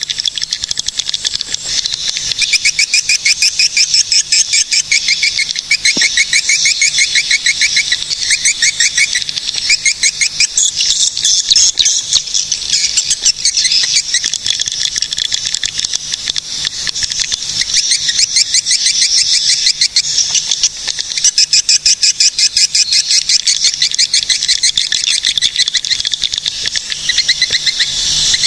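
Swiftlets calling without pause: a dense, rapid twittering of high chirps and trills, with the lower trills coming and going in runs of a few seconds.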